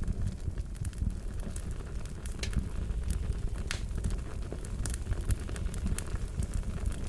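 A fire crackling: irregular sharp pops and snaps over a steady low rumble.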